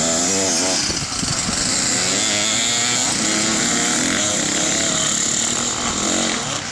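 Off-road racing engines running hard, their pitch rising and falling repeatedly as they rev and shift.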